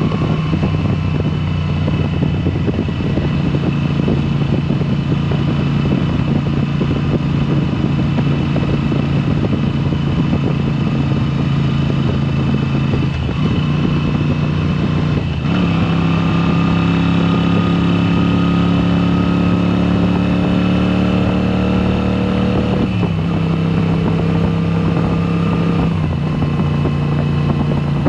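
2022 Moto Guzzi V7 Special's air-cooled transverse V-twin running through a Mistral exhaust with the dB killers removed, under way. The note dips briefly twice in the middle, then pulls higher with slowly rising pitch. It drops back twice near the end.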